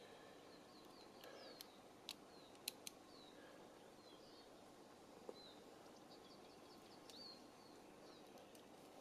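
Faint outdoor quiet with a small bird chirping repeatedly in short, quick notes. A few sharp little clicks come a couple of seconds in and again about five seconds in.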